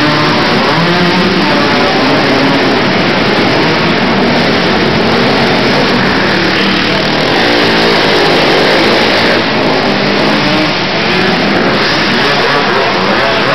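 Several racing quad (ATV) engines revving, their pitch rising and falling and overlapping as the riders throttle up and back off.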